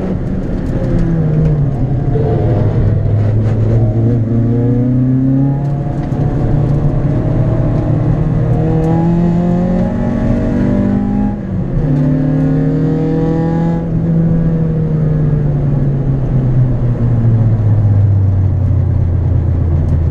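Citroën Saxo VTS's 1.6-litre 16-valve four-cylinder engine heard from inside the cabin, pulling hard on track with its pitch climbing and dropping through gear changes. About halfway through the pitch drops sharply, and over the last few seconds the revs slowly fall away.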